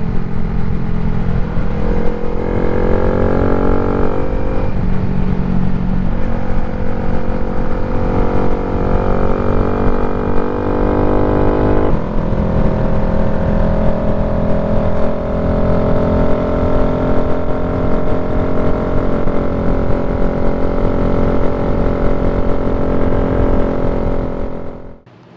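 A 2023 Honda Grom's 124 cc single-cylinder engine with an aftermarket exhaust, heard while riding and pulling through the gears. The engine pitch climbs, drops at upshifts about four and twelve seconds in, then holds steady at cruising speed, with heavy wind buffeting on the microphone. The audio cuts out abruptly near the end.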